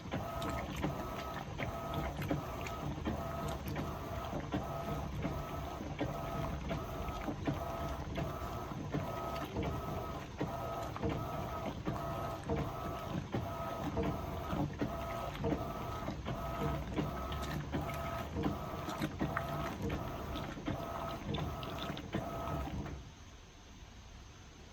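Electrolux LPE16 top-load washing machine agitating on its heavy programme, loaded with two queen-size duvets: a motor hum that swells and fades about one and a half times a second, with sloshing knocks. It stops near the end.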